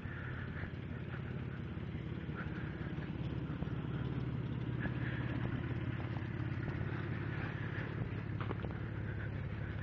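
An engine running steadily at low speed, a little louder from about three seconds in, with scattered faint clicks over it.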